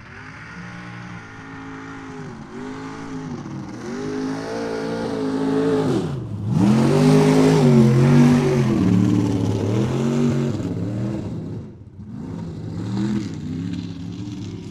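Mud truck engine revving hard again and again, the pitch rising and falling with each blip of the throttle. It grows loud toward the middle, drops out briefly about six seconds in, then comes back, and near the end it revs more quietly.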